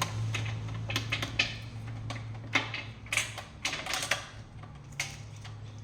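Irregular light clicks and knocks from handling a Ninja blender and plugging in its power cord, over a steady low hum.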